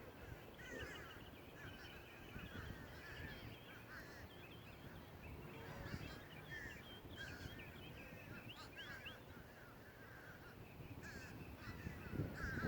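Many birds calling together in a dense, overlapping chorus of short chirps and chattering calls, fairly faint, over a low background rumble.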